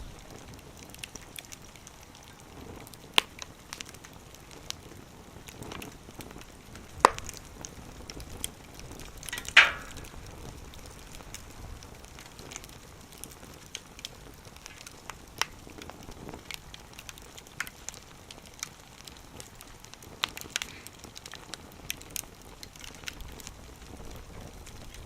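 Wood fire burning in a small wood stove, crackling with scattered sharp pops, the loudest three about 3, 7 and 9.5 seconds in.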